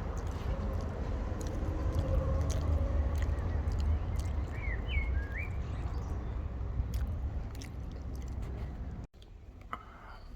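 A person chewing and biting into a pie and pastry close to the microphone, with scattered small crunches, over a steady low rumble of traffic. A bird chirps briefly about halfway through, and the sound cuts abruptly to quieter near the end.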